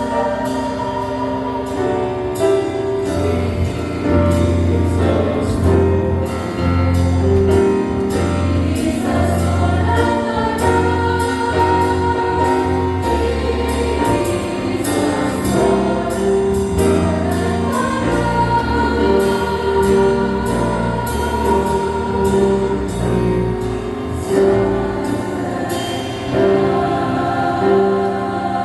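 Choir singing a jazz-style Christmas cantata number, backed by a band with a moving bass line and a steady beat.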